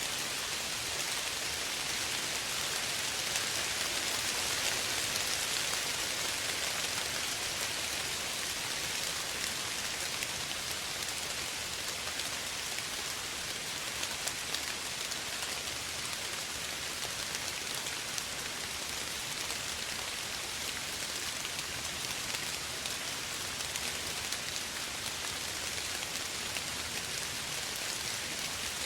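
Steady light rain falling, an even hiss with scattered drops ticking on a surface.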